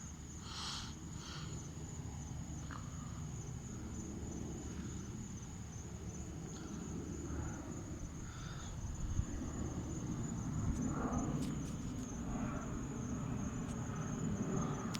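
Crickets trilling steadily at night, joined by the low rumble of an approaching airplane that grows louder through the second half.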